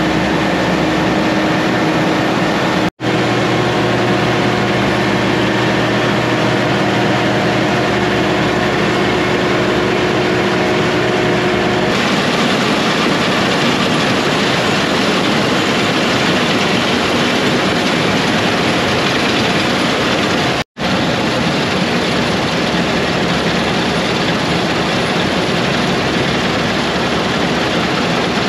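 Heavy diesel harvest machinery running steadily and loudly. It cuts out for an instant twice. About 12 s in, the steady engine hum gives way to a more even rushing noise.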